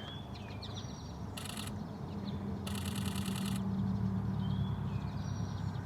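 Camera shutter firing in two rapid bursts, a short one about a second and a half in and a longer one of about a second around the middle. Faint bird chirps come and go behind them.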